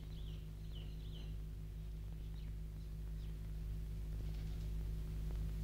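Small birds chirping faintly, short quick notes in a few scattered clusters, over a steady low hum.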